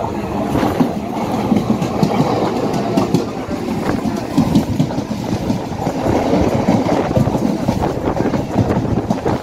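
A steady rumble with rapid wheel clatter from a moving suburban electric train, heard through its open door, as another suburban train passes close by on the next track.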